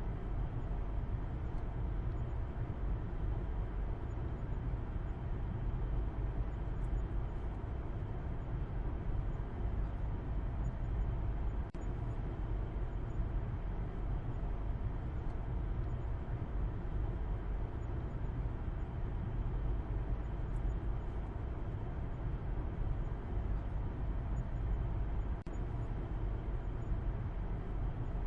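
Car driving along: a steady low rumble of engine and road noise with an even hiss above it, unchanging throughout.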